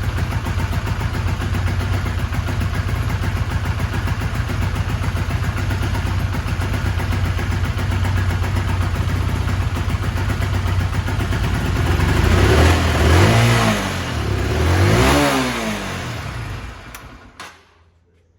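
Honda CBR125 motorcycle's single-cylinder engine idling steadily, then revved twice with short rising-and-falling throttle blips, then switched off about a second later.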